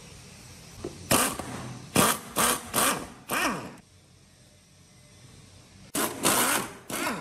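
Handheld power tool run in short bursts, each one winding down in pitch as it stops: five quick bursts, a pause of about two seconds, then three more near the end.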